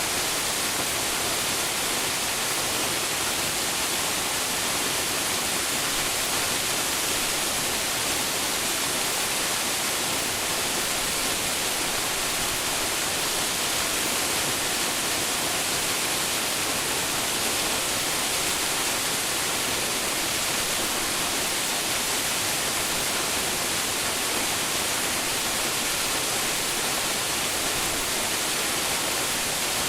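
Waterfall: water falling and splashing into its pool, a steady, unbroken rush strongest in the high hiss.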